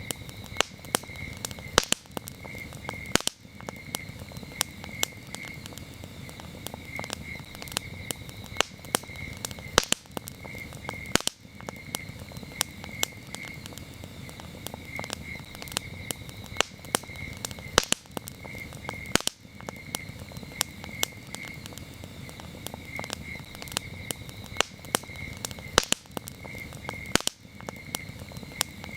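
Wood campfire crackling, with frequent sharp snaps and pops over a low steady rumble of flame. Crickets chirp in a steady pulsing trill throughout.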